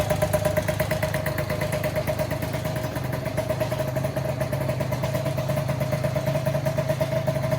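Honda Joker 90 scooter's single-cylinder two-stroke engine idling steadily through an aftermarket muffler, with a rapid even pulse and a steady hum.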